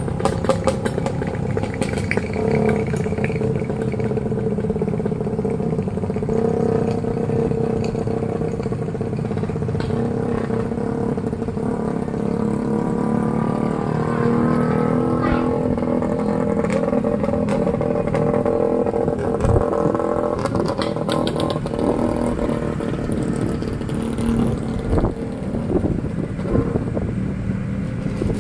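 Motorcycle engine running steadily under way, with scattered knocks and rattles.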